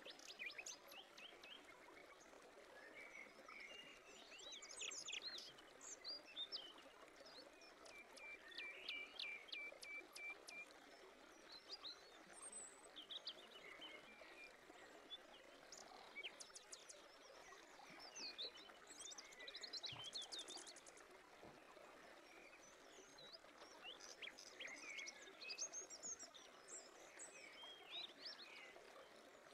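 Faint birdsong: several birds chirping and trilling over a soft, steady hiss, with a quick run of repeated notes about eight seconds in.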